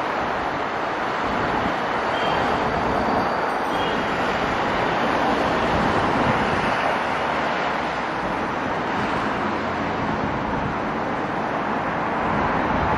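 Passenger train rolling away along the elevated track: a steady, even rumble of wheels on rails mixed with city traffic noise.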